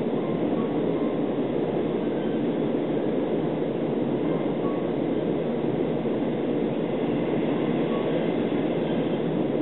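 Steady rumble of a 25Z passenger coach running at speed on the rails, heard from inside the coach.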